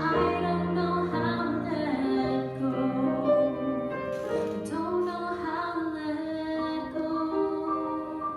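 A woman singing a music-theatre song in long held notes, with accompaniment underneath.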